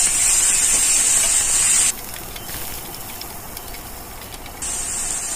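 Diced chicken sizzling in hot oil in a frying pan as it is stirred with a spatula: a steady high hiss that drops off sharply about two seconds in and comes back near the end, with faint scrapes of the spatula in the quieter stretch.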